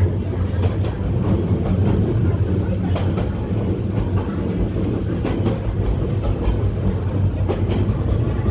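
A moving passenger train heard from inside the carriage: a steady low rumble of wheels running on the rails, with a few faint knocks.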